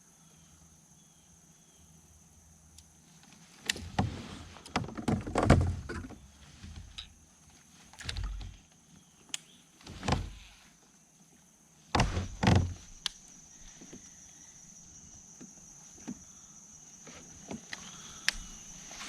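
Scattered knocks, bumps and rustling as gear and the catch are handled in a fishing kayak, coming in clusters about four, eight, ten and twelve seconds in, with quiet stretches between.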